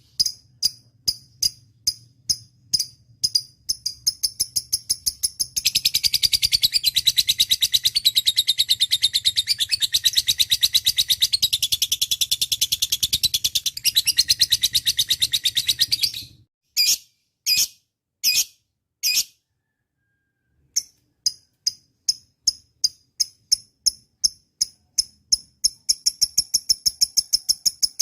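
Lovebird calling: a string of sharp, high repeated chirps that runs into a long, fast continuous trill of about ten seconds, which cuts off suddenly. A few separate calls follow, then a pause of about a second, then quick chirps again, speeding up near the end.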